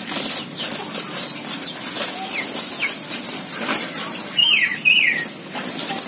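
Several birds calling: short, high whistles and chirps again and again, with two louder falling chirps near the end, over wing flaps and rustling in the foliage.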